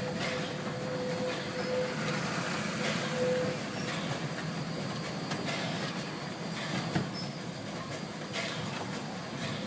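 1927 vintage steam train running along the line: a steady rolling rumble with scattered sharp knocks from wheels and rail, and a faint steady tone through the first few seconds.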